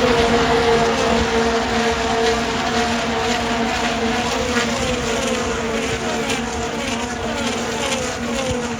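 A stream of IndyCars, 2.2-litre twin-turbo V6 race engines, passing at full speed one after another, each car's engine note falling in pitch as it goes by.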